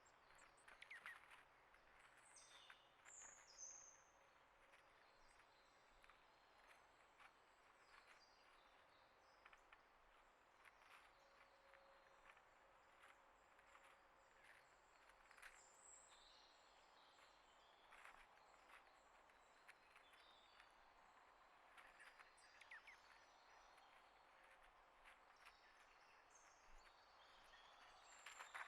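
Faint outdoor ambience with scattered short bird chirps and a few higher gliding bird calls now and then.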